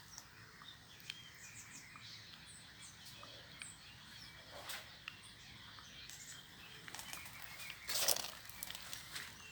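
Outdoor ambience with small birds chirping here and there in short high calls, and a brief rustling noise about eight seconds in.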